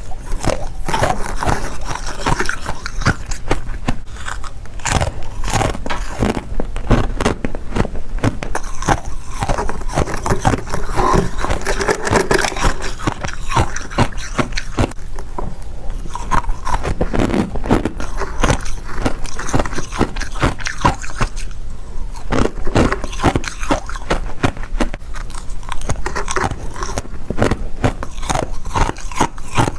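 Close-miked biting and chewing of freezer frost: dense crunching and crackling.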